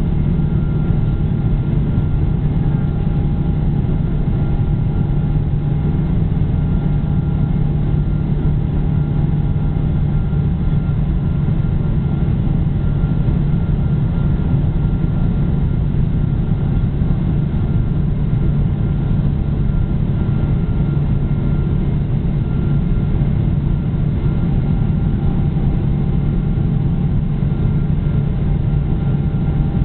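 Steady jet-engine and airflow noise inside the cabin of a Boeing 777: a deep hum with faint steady whining tones above it, unchanging throughout.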